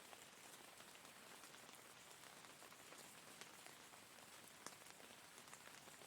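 Faint steady rain: an even hiss of rain falling on a surface, with scattered individual drops ticking through it and one sharper drop a little before the end.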